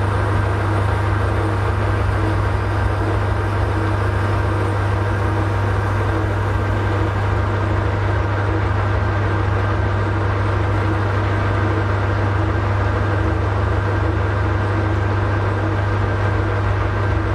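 Metal lathe running at a steady speed, with a constant low hum that does not change.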